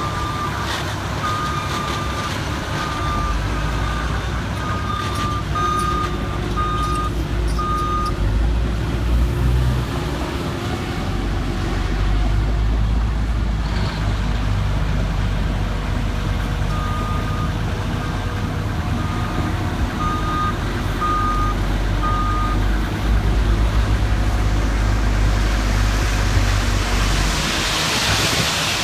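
A heavy construction vehicle's engine running with a low rumble, while a reversing alarm beeps about once a second in two spells, first at the start and again in the middle. A rushing hiss swells near the end.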